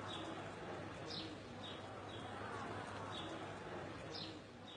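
Faint birdsong: short chirps repeating about twice a second over a soft steady hiss, with two louder chirps, one about a second in and one near the end.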